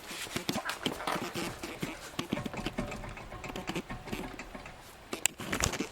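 Irregular light clicks and knocks from hands handling things, with no steady mechanical sound.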